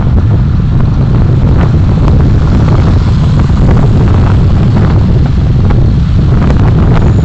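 Steady, loud low rumble of a car driving, engine and road noise picked up by a dashcam in the cabin, with a few faint knocks.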